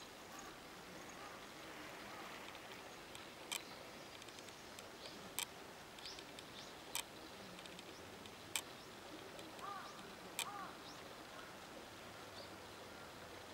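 Quiet garden ambience with small bird chirps, cut by five sharp ticks spaced a little under two seconds apart, and two short calls about two-thirds of the way through.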